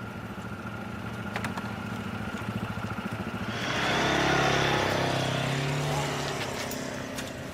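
Motorcycle engine idling with a steady low pulse, then revving up about three and a half seconds in as it pulls away, the sound slowly fading toward the end.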